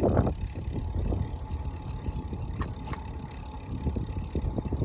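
Steady low rumble of wind and road noise on the microphone of a moving bicycle, with a faint steady hum and a few light ticks.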